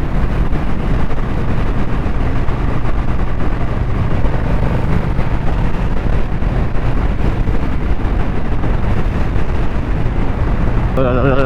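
Yamaha Stratoliner's V-twin engine running steadily at cruising speed under a constant rush of wind over the helmet microphone.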